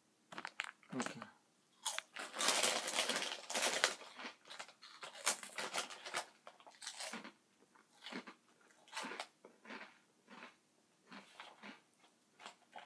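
A person biting into and chewing crisp Funyuns onion-flavoured rings: a dense run of loud crunches about two to four seconds in, then slower, separate crunches as the chewing goes on.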